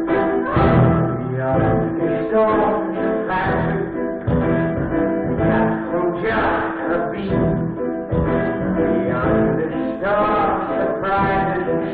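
Theatre pit orchestra playing an instrumental passage of a stage-musical number, with plucked and bowed strings holding chords, in a muffled, poor-quality recording.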